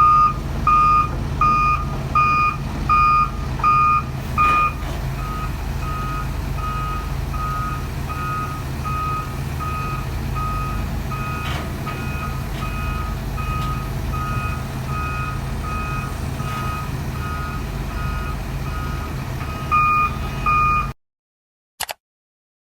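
Heavy-equipment back-up alarm beeping steadily, about three beeps every two seconds, over a diesel engine's low, steady running. The beeps are louder for the first few seconds and again near the end, then all sound cuts off abruptly about a second and a half before the end.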